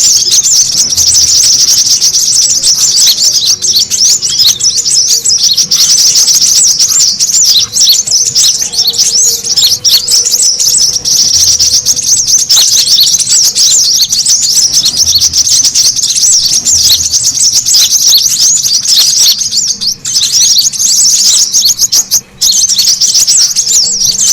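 Brown-throated sunbird (kolibri kelapa) song: a fast, dense stream of high chirps and trills with hardly a pause, breaking off only briefly about 22 seconds in.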